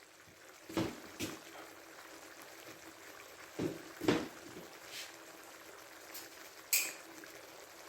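Stir-fried chicken and vegetables simmering in the pan with a faint, steady sizzle, broken by about six short clinks and knocks of metal utensils against the pan.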